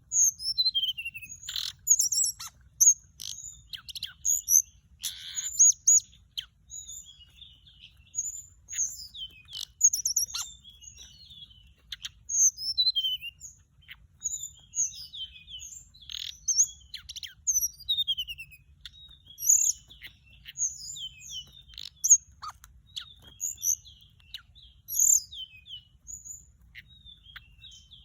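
Tickell's blue flycatcher song: short, high, sweet phrases of falling notes, repeated one after another with brief pauses, played as a lure call.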